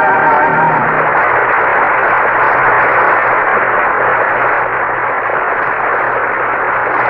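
Studio audience applauding as the last held notes of the orchestra and choir end, about a second in.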